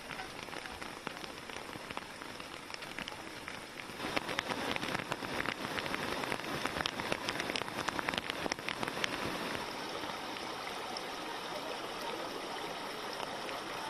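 Heavy rain falling, a dense hiss with many separate drop ticks; it grows louder about four seconds in and settles back to a steadier hiss near the end.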